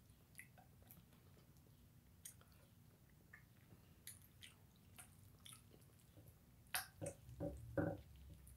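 Close-up mouth sounds of a person chewing and eating: faint soft clicks and smacks, with a few louder smacks about seven seconds in.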